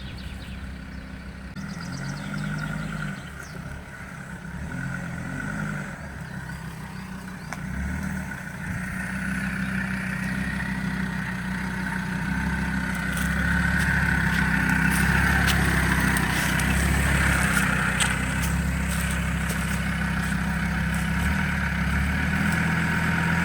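A 4x4's engine running at low revs as the vehicle creeps and manoeuvres over rough ground, growing louder from about eight seconds in and staying close. A few light clicks sound over it.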